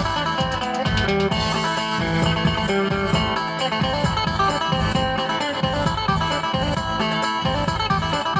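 Isan phin, a Thai plucked lute, playing a busy melody in a band recording over a steady beat.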